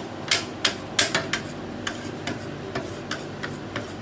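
Metal scrapers tapping and scraping on a frozen ice-roll pan as a thin layer of slush is spread, in irregular clicks about two or three a second over a steady low hum.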